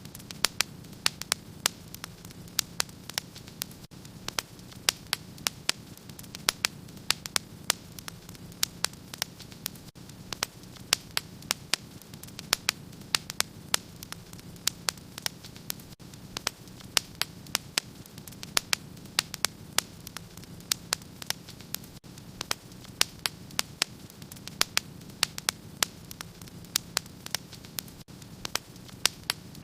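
Wood fire crackling in a fireplace: sharp, irregular pops and snaps several times a second over a steady low rush of the burning fire.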